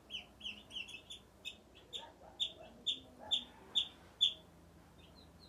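Baby chicks peeping: a quick run of short, high, downward-sliding peeps, about three a second, that stops a little after four seconds in.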